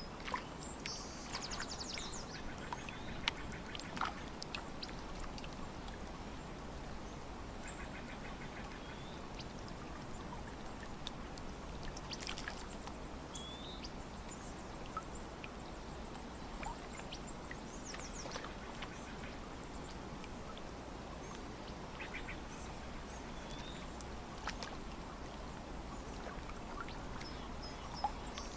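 Lakeside ambience: a steady low wash of water lapping, with scattered short bird calls throughout, some chirps and some quick rattling trills.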